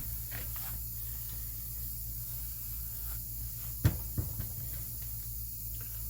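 A sharp knock about four seconds in, followed quickly by two lighter ones, over a steady low hum and hiss.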